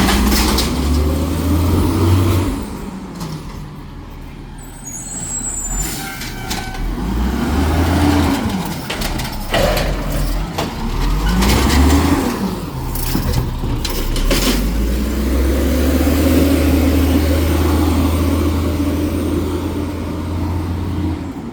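Garbage truck engine revving up and down three times, then held at high revs for several seconds, as it works the hydraulic packer compacting trash. A few short hisses of air cut in between the revs.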